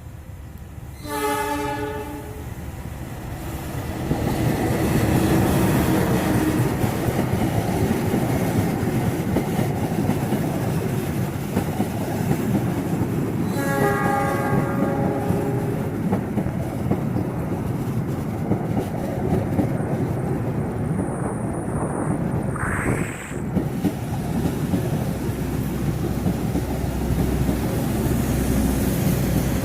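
Diesel locomotive of the KAI Lodaya train sounding its horn twice, once just after the start and again about halfway through, each for about a second and a half. Between and after the blasts the train runs past with a loud, steady rumble and wheels clacking on the rails.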